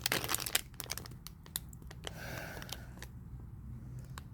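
Baseball cards and their packaging being handled, making crinkling and light clicking that is busiest in the first second, then sparse.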